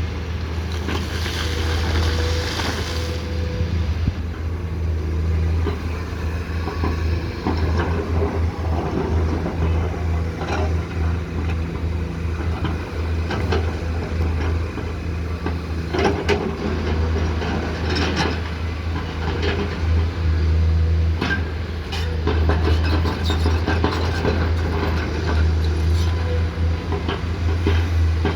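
Komatsu PC210-10M0 excavator's diesel engine running steadily at working speed, with scattered short knocks and clatter throughout.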